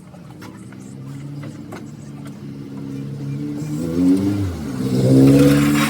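A motor vehicle's engine getting steadily louder and revving up, loudest about five seconds in.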